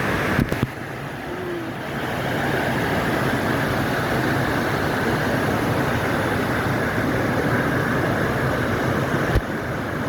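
Stream water rushing steadily over rocks, with a sharp knock about half a second in and another near the end.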